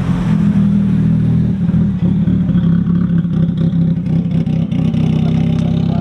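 A car engine running steadily at low revs close to the microphone, a deep even drone.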